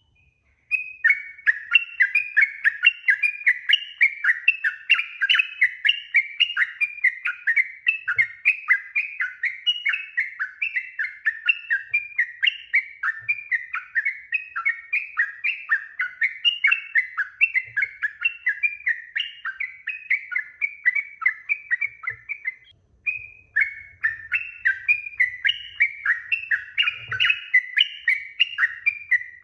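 Yellow-vented bulbul (trucukan) singing a long, unbroken run of quick chattering notes, about three a second, with one short pause about three-quarters of the way through before it carries on.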